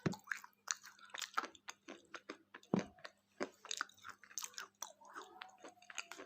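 Close-up chewing and biting of a thick KitKat chocolate wafer bar, the crisp wafer crunching in quick, irregular sharp cracks.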